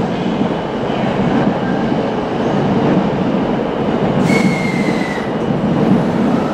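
Electric commuter train running on the rails through the station, a steady rumble with a brief high squeal of wheels on rail about four seconds in.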